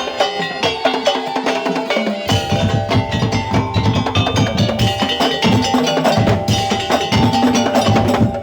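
Madurese daul (tong-tong) percussion ensemble playing: clattering wooden percussion over ringing tuned gongs and metal tones, with a deep drum part coming in about two seconds in.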